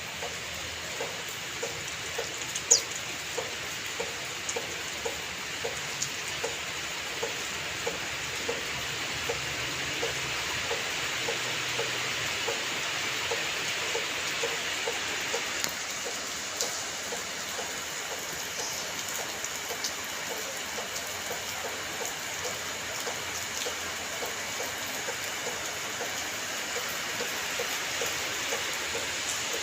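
Steady rain falling, with an even tick about twice a second and a sharp tap about three seconds in.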